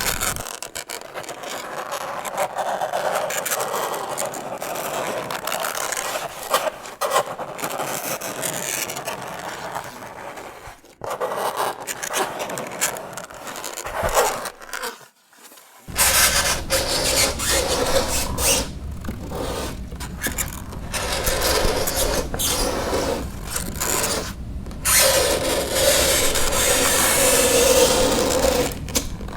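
Fingernails scraping across a chalkboard: a continuous rasping scrape with a held squeal near the start and again near the end, broken by a short pause about halfway through.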